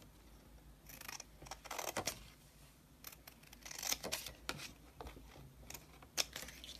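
Scissors cutting cardstock: a run of short, crisp snips in uneven clusters.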